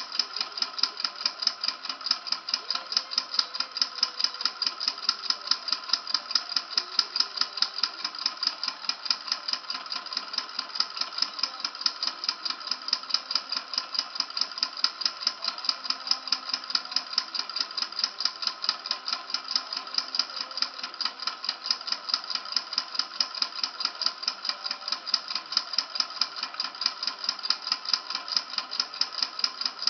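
Model Stirling engine running steadily, its moving parts making a fast, even clicking that holds the same rate throughout.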